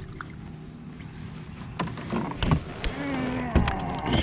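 A string of knocks and clatter on a plastic fishing kayak, starting about two seconds in, over a steady low hum.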